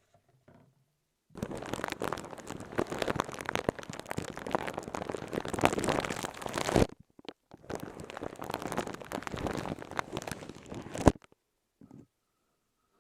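Close-up crinkling and crackling, like something being handled and crumpled right at the microphone, in two long stretches of about five and four seconds, the second ending with a sharp snap.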